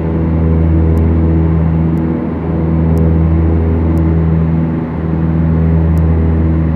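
Beechcraft Duchess twin-engine piston aircraft heard from the cabin, its two four-cylinder engines and propellers droning steadily. The level swells and fades gently every couple of seconds.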